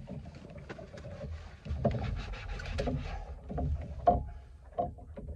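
Knocks and bumps in a small fishing boat over a low rumble, the loudest knock about four seconds in.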